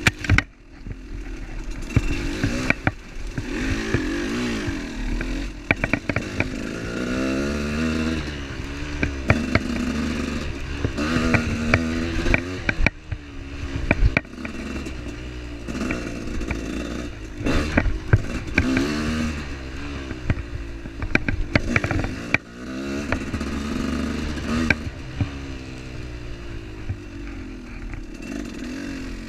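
Off-road motorcycle engine being ridden over rough trail, its pitch rising and falling again and again with the throttle, while the bike rattles and clatters over bumps.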